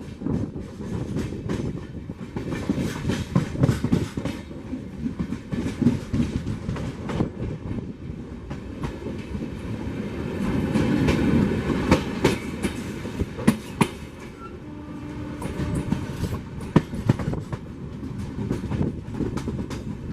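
Passenger train's wheels running over rail joints and points, with irregular clicks and clacks over a steady rumble, heard from on board. The running noise swells for a couple of seconds around the middle.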